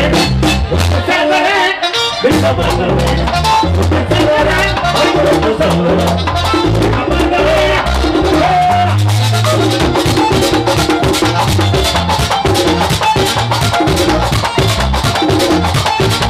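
Live bachata band playing an instrumental passage: bass and guitars over a steady, fast scraping shaker-like percussion rhythm, with a brief break about two seconds in.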